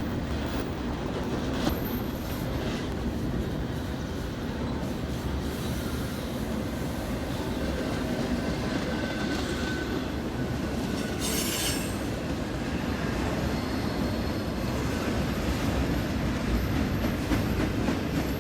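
BNSF double-stack container train rolling past: a steady rumble of steel wheels on rail, with a faint wheel squeal about halfway through and quick clicks of wheels over rail joints near the end.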